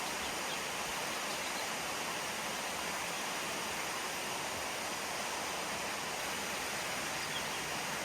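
Steady, even rush of falling water from the Cedar Creek Falls waterfall.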